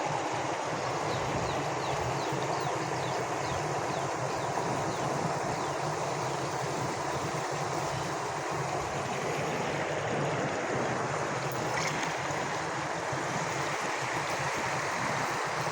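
Village stream of clear water running steadily, with a run of faint high chirps in the first half.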